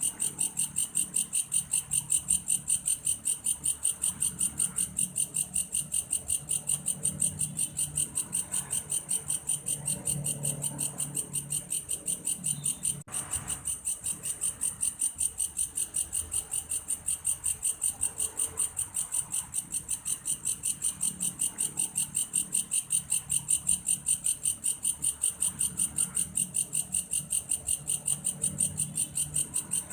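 Insect known in Indonesia as belalang kayu singing a cricket-like call: a high, even, rapidly pulsing trill that goes on without a break. A soft low rumble lies underneath, with a brief click about 13 seconds in.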